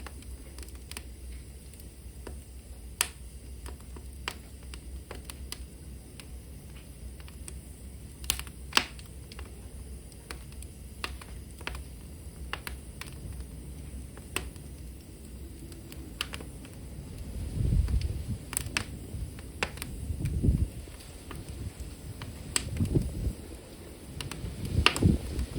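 Burning wood crackling in a fireplace: irregular sharp pops and snaps, with a few low rumbling swells in the second half.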